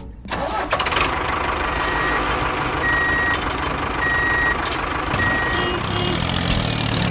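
A truck's reversing alarm beeping four times, about once a second, over a steady engine rumble that starts about a second in.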